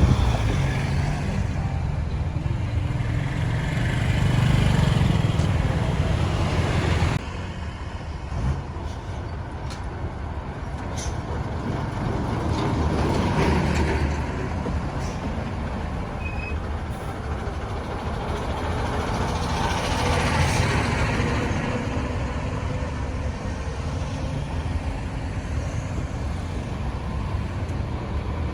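Road traffic noise heard from a moving vehicle: a steady rumble of engines and tyres on a busy road, with a truck among the vehicles. The noise drops suddenly about seven seconds in, then swells twice as vehicles pass.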